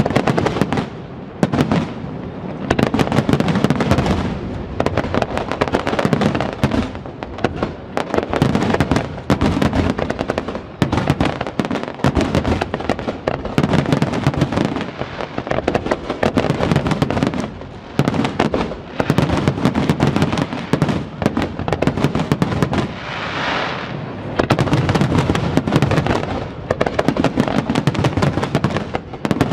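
Fireworks display: many rapid, overlapping bursts and crackles in rolling waves, with only brief lulls.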